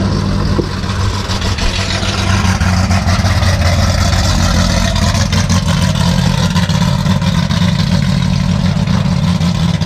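GM LT-series V8 engine running loud and steady, its sound swelling a little about two seconds in.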